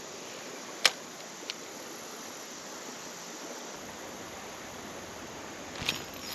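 Creek water running steadily. A sharp click about a second in is the loudest sound, with a fainter click shortly after and another near the end.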